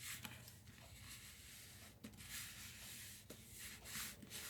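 Faint rubbing and rustling of cardstock as hands press a freshly glued paper panel down onto a card, in a few soft strokes.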